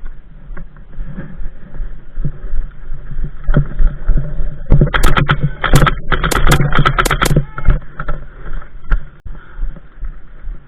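Airsoft guns firing: a dozen or so sharp, irregular shots packed into about four seconds from near the middle, over steady low rumbling and rustling movement noise.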